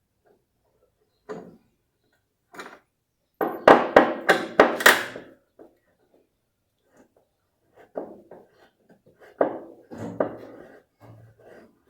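Tools and metal parts knocking and clattering while a washing machine's transmission assembly is being dismantled, with a loud quick run of about five sharp knocks near the middle and lighter clatter later.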